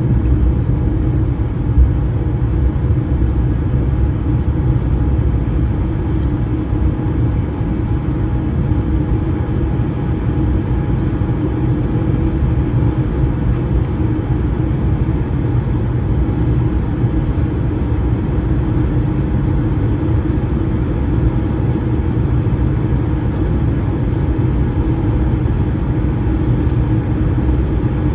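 Airbus A220-300's Pratt & Whitney PW1500G geared turbofans heard from inside the cabin at high takeoff thrust: a loud, steady low rumble with a few constant tones over it.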